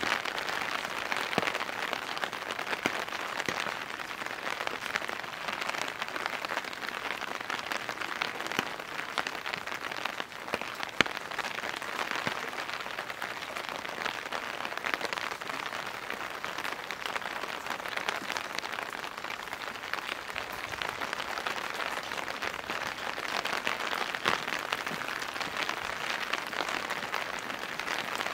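Steady rain falling and pattering on surfaces, with many small drop ticks and one sharper tick about eleven seconds in.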